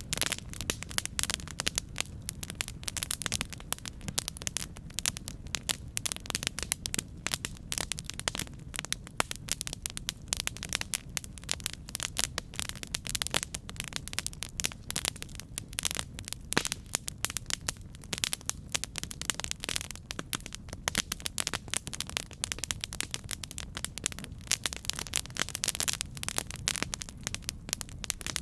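Campfire burning: dense, irregular crackling and popping of burning wood over a steady low rumble.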